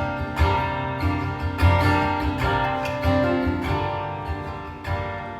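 Acoustic guitar strummed and picked in an instrumental passage between sung verses, its strokes growing quieter toward the end.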